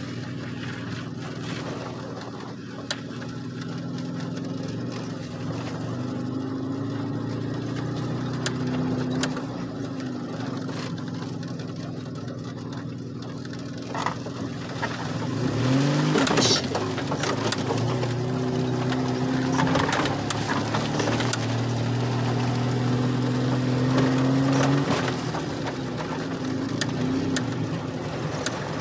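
Car engine heard from inside the cabin as it is driven on a dirt road with a manual gearbox. The engine note holds steady and then steps to new pitches as the driver changes gear, with a quick rise in revs and a louder stretch about halfway through.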